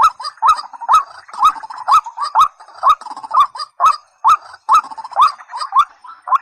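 Rails calling: a white-breasted waterhen or watercock gives a loud, even series of short, upward-hooked call notes, about two a second.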